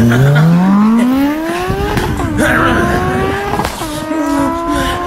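Car engine accelerating hard through the gears. Its pitch climbs steeply for about two seconds, drops at a shift and climbs again, with another shift near four seconds.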